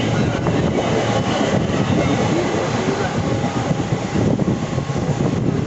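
Express passenger train running on the rails, heard from aboard: a loud, steady rumble and rattle of the coach's wheels on the track.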